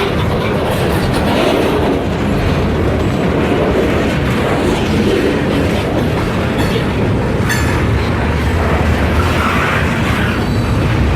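Freight train rolling past close by, its steel wheels clacking over the rail joints in a steady, loud rumble, with a brief high squeal about seven seconds in.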